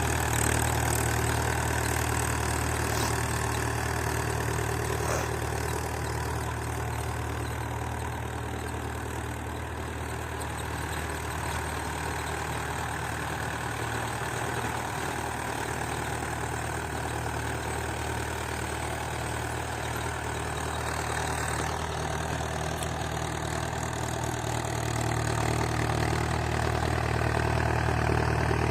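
Mahindra 575 DI tractor's four-cylinder diesel engine running steadily, a little louder at the start and again near the end.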